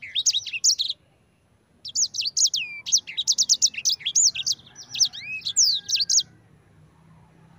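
Sanger songbird singing a fast rolling song of quick, high, sweeping whistled notes. It breaks off briefly about a second in, starts again, and stops about six seconds in.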